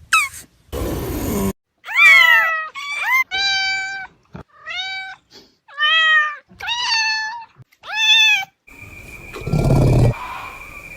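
Cat meowing repeatedly: about six short meows, each rising then falling in pitch. Near the end a low rumbling noise comes in with a steady high tone.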